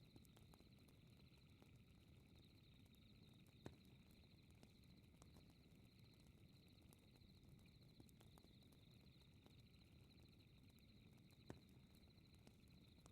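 Faint night ambience of crickets chirping in a steady, fast-pulsing trill over a low rumble from a fireplace. Two sharp crackling pops from the burning wood come about a quarter of the way in and near the end.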